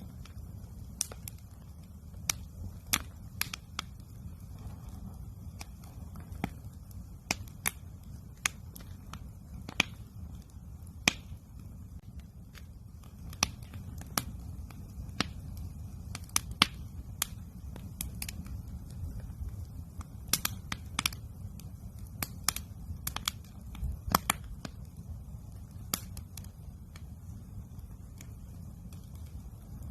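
Wood campfire crackling, with irregular sharp pops and snaps, some much louder than others, over a steady low rumble.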